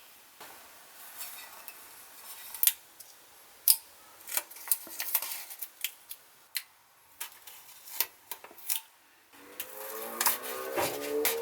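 Metal parts and hand tools clinking and tapping against each other in a run of sharp, irregular clicks. Near the end a steady hum with several pitched tones, slightly rising, comes in.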